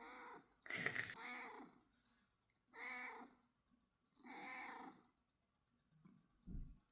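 Domestic cat meowing softly, about four separate short meows a second or so apart, followed by a soft low thump near the end.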